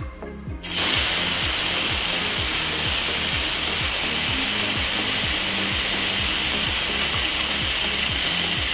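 Boiled banana flower pieces hitting hot mustard oil in a wok set off loud, steady sizzling. The sizzle starts suddenly a little under a second in and holds.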